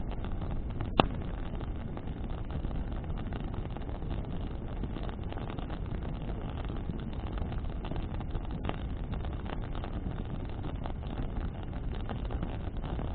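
Bonfire burning in the wind: a steady low rushing noise of flames and wind, broken by a sharp crackle-pop from the burning wood about a second in and another, softer one later.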